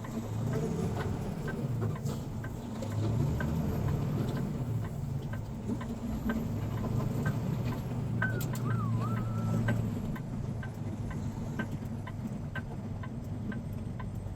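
Semi-truck's diesel engine running, heard from inside the cab, its pitch rising and falling over the first few seconds and then holding steady, with a regular light ticking throughout. A brief warbling chirp comes about eight seconds in.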